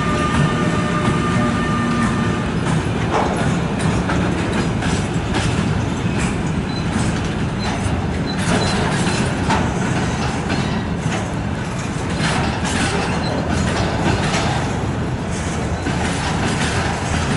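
Freight train hauled by a KZ8A electric locomotive rolling past: a steady rumble of wagon wheels on the rails, broken by frequent clicks and knocks from the track. A thin steady whine is heard over it for the first two seconds.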